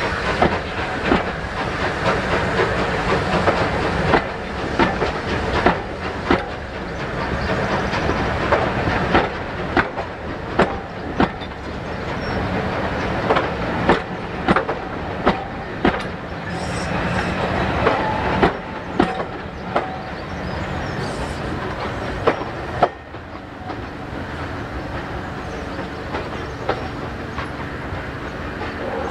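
Passenger coaches rolling past, their wheels clicking over the rail joints about once a second over a steady rumble. About 23 seconds in the clicking stops and the level drops as the last coach goes by, leaving the fainter rumble of the departing train.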